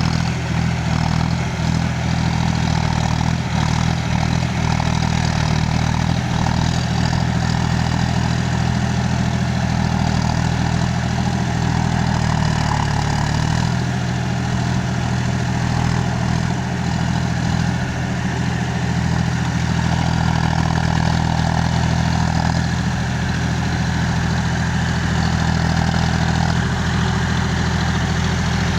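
Tractor diesel engine running steadily at a constant speed, a low even drone with no change in revs.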